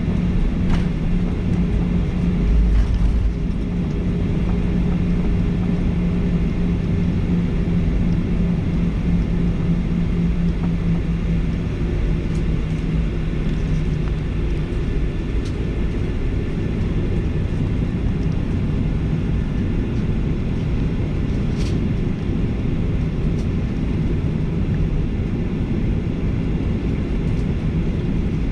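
Cabin noise of a Boeing 737-800 taxiing, heard from a window seat: its CFM56 engines running near idle with a steady hum that fades about halfway through, over a low rumble from the airframe and wheels. There is a brief heavier rumble about three seconds in, and a few faint clicks.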